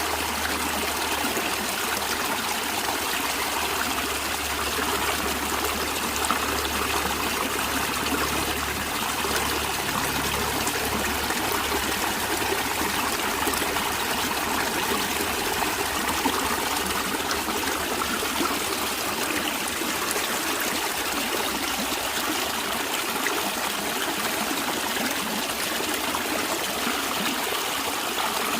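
Natural stream of water flowing and trickling steadily.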